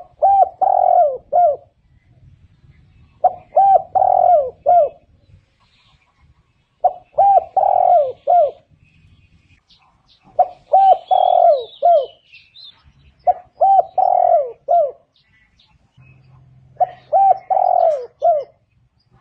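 Spotted dove cooing: six phrases, about one every three and a half seconds. Each phrase is a short run of low coos with a longer note in the middle.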